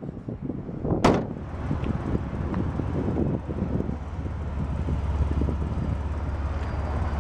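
A car door shutting once with a sharp thump about a second in, followed by steady wind rumble on the microphone.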